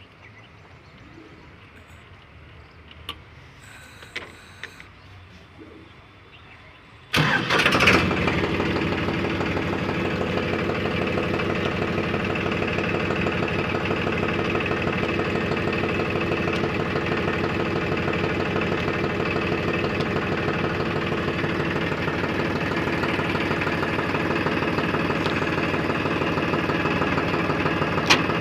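Farmtrac Pro Max 45 HP tractor's diesel engine starting: a few faint clicks, then about seven seconds in it cranks and catches almost at once and settles into a steady idle.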